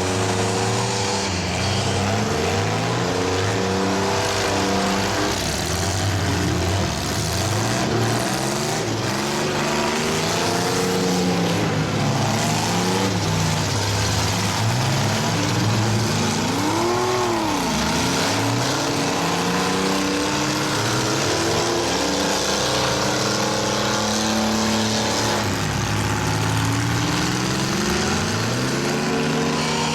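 Several small derby-car engines revving up and down at once, their pitches rising and falling as the drivers accelerate and back off, over a constant din.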